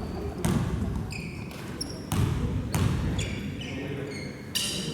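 Basketball game on a gym court: the ball bounces a few times and sneakers squeak briefly on the floor, over a low murmur in the hall.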